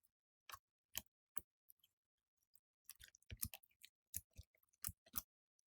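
Slime being handled, giving scattered sharp clicks and pops with short silences between them, several bunched together about three seconds in.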